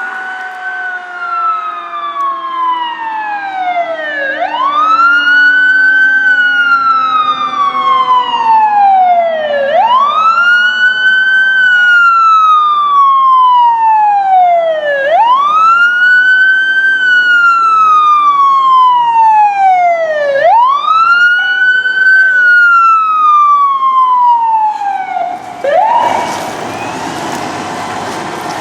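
Fire engine's siren wailing in a slow cycle, about five times: each wail climbs quickly, then falls away slowly over several seconds. Near the end the wail stops and a noisier, quieter sound takes over.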